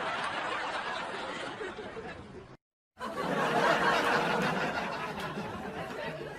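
People laughing and giggling, broken by a moment of dead silence a little over halfway through, then more laughter.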